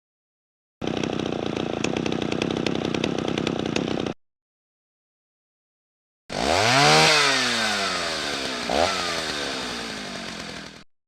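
Two separate power-tool sound effects with a pause between them. First a steady buzzing run of about three seconds. Then a motor revs up quickly and winds down slowly over about four seconds, with a short second rev partway through.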